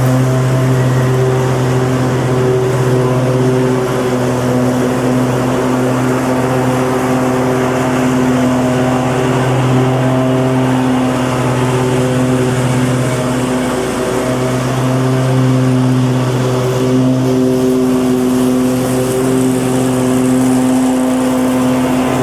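Lawn mower engine running steadily with a constant droning hum, its pitch wavering slightly.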